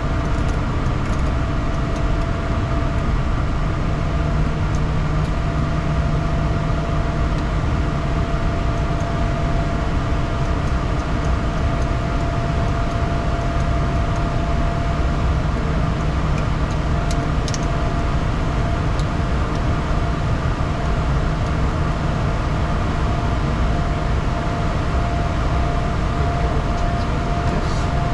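The Bombardier Challenger 350's Honeywell HTF7350 turbofans and airflow heard as a steady, unchanging drone, with a constant mid-pitched whine and a low hum under it.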